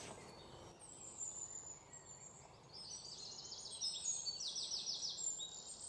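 Faint birdsong: high, thin calls, then from about three seconds in a run of quick repeated chirps, over a quiet background.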